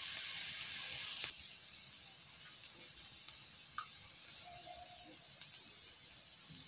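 Diced onion sizzling in hot oil in a frying pan. The sizzle drops to a quieter hiss about a second in, with a faint tap or two.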